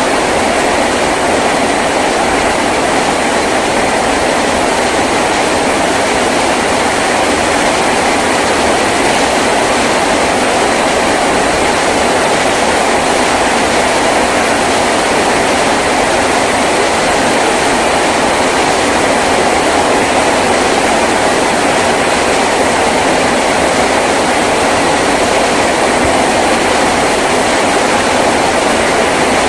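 Heavy rain drumming on a tin roof, a loud, steady, unbroken downpour.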